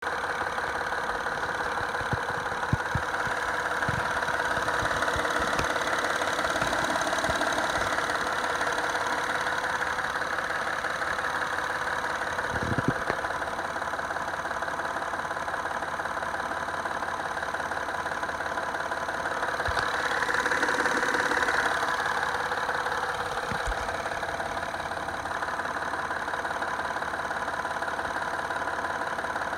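2010 Acura TL's V6 engine idling, with a loud knocking from under the hood and a few sharp thumps here and there. The engine sound swells briefly about two-thirds of the way through.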